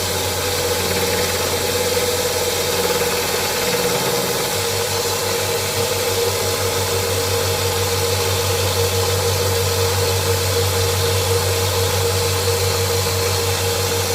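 Electric grinding machine running steadily while the back of a steel chisel is ground flat: a constant motor hum with a steady tone and a hiss of grinding. Near the end the motor is switched off and winds down.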